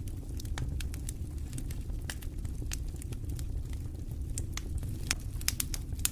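Campfire crackling, with sharp irregular pops and snaps of burning wood, several louder pops in the last second or so, over a steady low rumble of wind.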